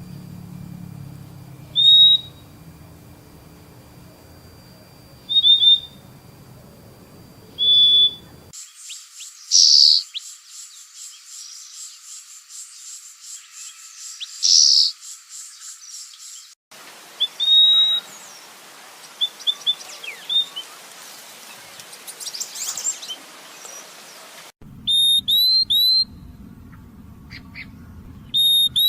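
Purple-throated euphonia (fim-fim) calling: short, high whistled notes, sometimes single and sometimes in quick pairs or threes, repeated every few seconds.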